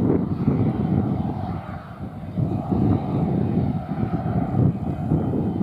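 Jet aircraft engine noise mixed with gusty wind buffeting the microphone, the low rumble swelling and dipping unevenly.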